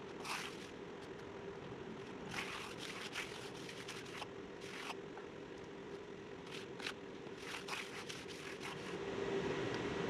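Short, repeated scraping strokes of a trowel over the concrete slab's surface, irregularly spaced, over a steady low hum.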